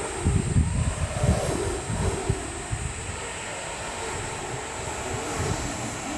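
Wind buffeting the microphone in irregular low gusts over a steady rushing hiss, the gusts heaviest in the first couple of seconds.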